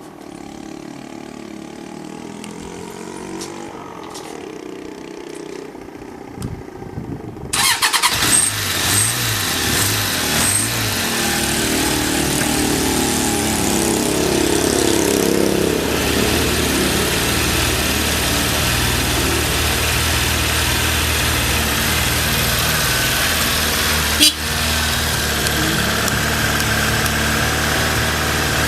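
Suzuki GSF750 inline-four motorcycle engine firing up on the starter about seven and a half seconds in, revving a few times, then settling into a steady idle, with one sharp click late on. The seller presents it as a first-press start with a stable idle and no abnormal noises.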